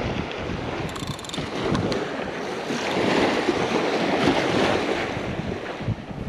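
Strong onshore wind buffeting the microphone over the wash of breaking surf, swelling louder about halfway through, with a few faint ticks about a second in.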